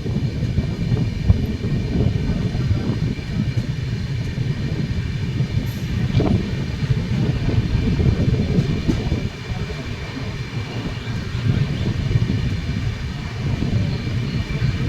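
Express passenger train running through a station: a steady rumble of coaches rolling on the rails, with a few sharper clicks from the wheels.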